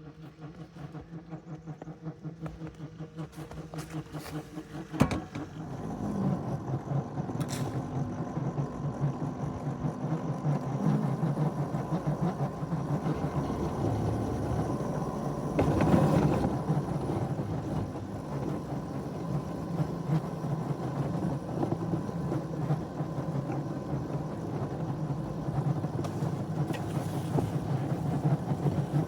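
A small engine running steadily with a pulsing drone. It grows louder over the first few seconds, with a sharp knock about five seconds in and a brief swell midway.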